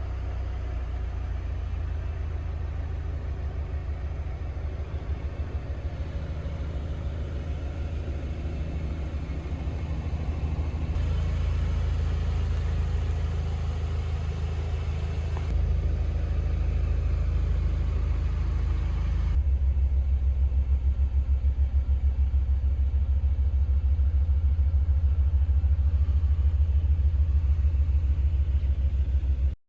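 Cupra Leon's 2.0 TSI turbocharged four-cylinder petrol engine running as a steady low drone. The pitch and level shift abruptly three times, about a third of the way in, near the middle and about two-thirds in, and the drone is loudest near the end.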